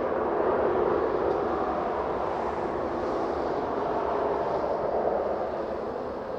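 Cessna 560 Citation V's twin Pratt & Whitney JT15D turbofan engines running, a steady jet rush that swells a little and then fades near the end.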